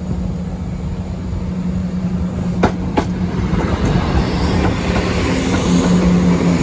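Diesel passenger train approaching a level crossing, its engine hum and wheel rumble steadily growing louder, with two sharp clacks a third of a second apart about two and a half seconds in.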